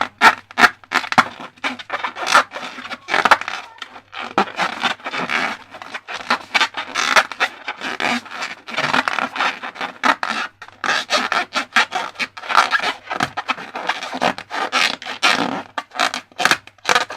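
Slime being worked by hand: a dense, irregular run of sticky clicks, squelches and scraping rasps, with a few louder snaps in the first second.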